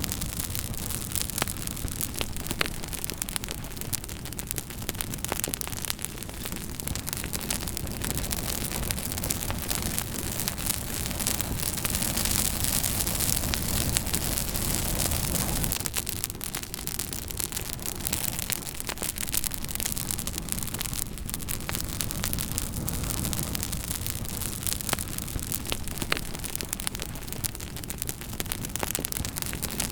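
Campfire burning with frequent sharp crackles and pops over a steady hiss, with a low rumble underneath that swells for a few seconds midway.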